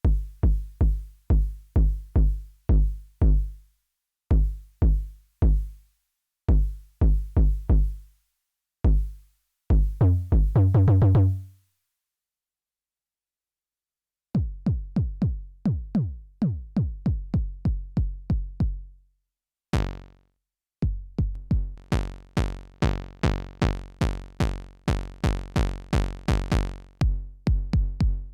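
Elektron Syntakt's analog bass drum machine playing dry kick drum patterns. The 'Silky' kick repeats in a rhythm and ends in a fast roll, then stops. After a pause of about three seconds, the 'Sharp' kick starts, each hit with a falling pitch, and turns brighter and longer-ringing from about seven seconds into its run.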